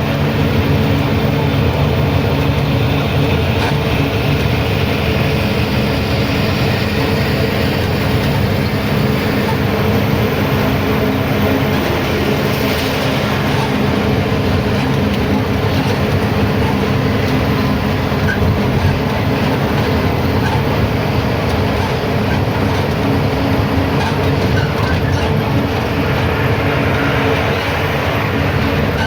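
A truck driving on the highway: steady engine drone with a constant low hum under even road noise, holding level throughout.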